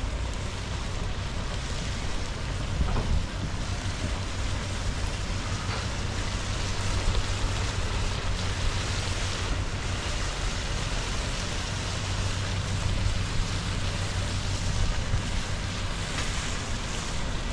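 Steady sizzling hiss of chow mein and vegetables cooking in a pot over a wood fire, with a low steady hum underneath.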